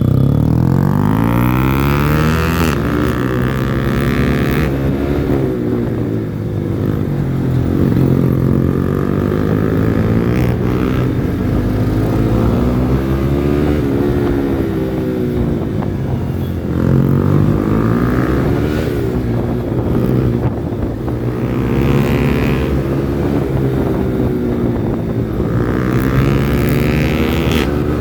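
Yamaha R15 V4's single-cylinder engine through a modified exhaust, ridden hard: the pitch climbs steeply in the first two seconds, then rises and falls again several times as the bike accelerates and eases off.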